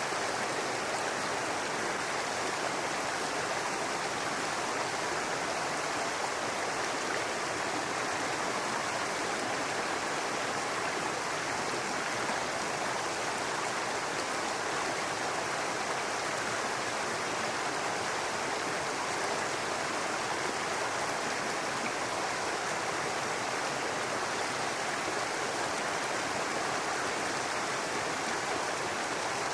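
Babbling brook: shallow water running steadily over rocks, an even rushing and burbling with no distinct events.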